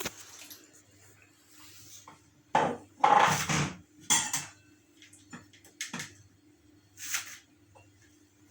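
Kitchen dishes and utensils clattering and knocking in several short, separate bursts, the loudest about three seconds in, over a faint steady hum.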